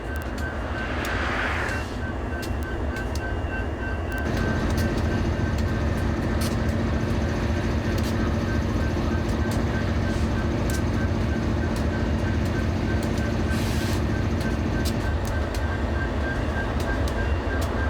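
Track renewal train machinery working. A steady engine drone grows louder about four seconds in and drops back near fifteen seconds. Over it come frequent metallic clanks and knocks, a steady high-pitched tone, and a brief hiss about fourteen seconds in.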